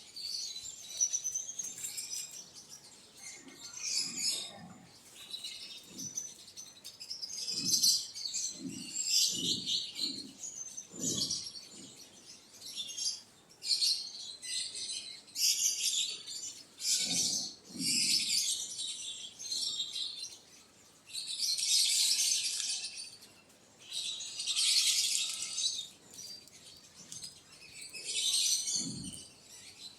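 Small birds chirping and chattering in repeated bursts, with a few short low thuds among the calls.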